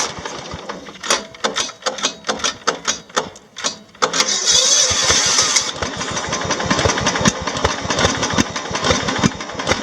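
John Deere 170 lawn tractor engine on a cold start. Irregular clicks and sputters come first, then a loud burst of cranking about four seconds in, after which the engine catches and runs with uneven firing pulses.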